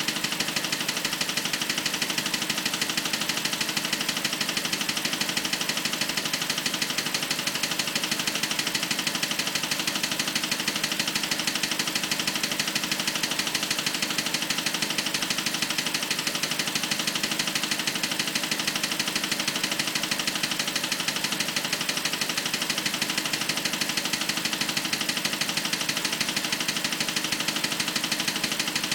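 BMW 545i's 4.4-litre V8 running at a steady idle with a fast, even clicking that does not let up. This is the weird clicking noise the owner is trying to track down.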